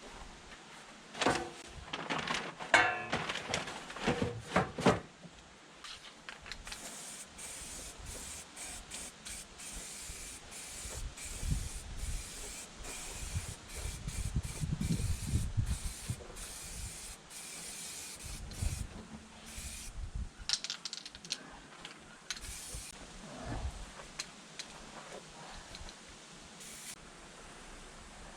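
Aerosol spray can of rust-preventive paint hissing in repeated bursts with short breaks between them. Several seconds of clattering and knocks come first.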